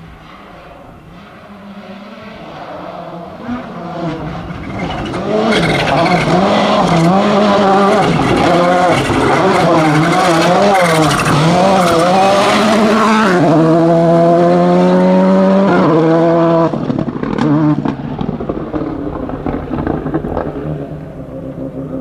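VW Polo GTI R5 rally car's turbocharged four-cylinder engine coming closer at speed, its revs rising and falling quickly through gear changes and corners. It then pulls up steadily through one gear. About seventeen seconds in the sound drops sharply and carries on lower as the car goes away.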